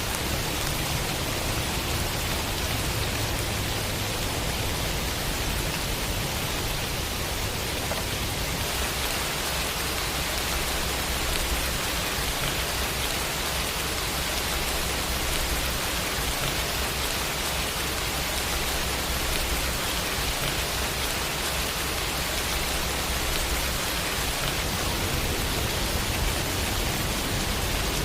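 Steady rain falling, an even unbroken hiss with a low rumble beneath it.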